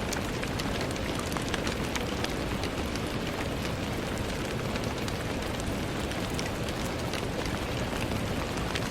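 Steady rain on a window: an even wash of rainfall with many single drops ticking sharply through it.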